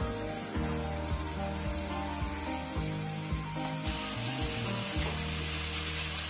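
Shredded banana stem sizzling in hot oil in a nonstick kadai as it is tipped in and turned over with a wooden spatula, over background music with long held notes.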